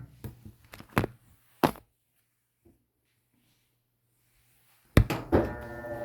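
A few light knocks in the first two seconds, a quiet gap, then a sharp thump about five seconds in, followed at once by steady music with a held chord.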